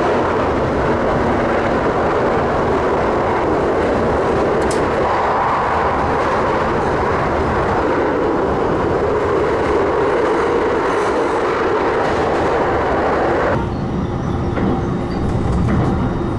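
Train running at speed through a long rail tunnel, heard inside the passenger car as a steady, loud rolling noise of wheels on rail. About three seconds before the end the sound turns lower and duller as the train comes out of the tunnel into the open.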